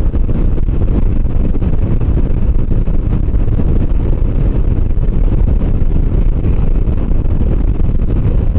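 Steady low rumble of a motorcycle being ridden at speed: wind buffeting the microphone over the engine and road noise.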